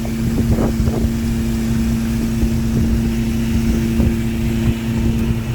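Small fishing boat's engine running steadily underway, a constant low drone with wind on the microphone, and a few faint knocks in the first second.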